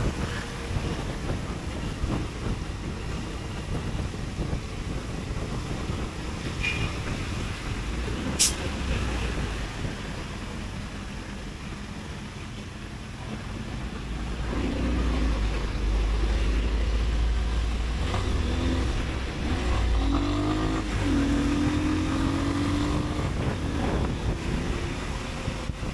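Motorcycle riding with steady wind and road noise. About halfway in the engine grows louder and accelerates, its pitch climbing in steps as it moves up through the gears. A single sharp click about a third of the way in.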